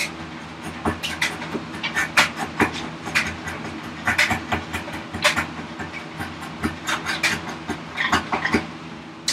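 A chisel paring end grain of ash by hand: short, irregular scraping cuts, several a second, as the sides of a vise chop are trimmed to fit.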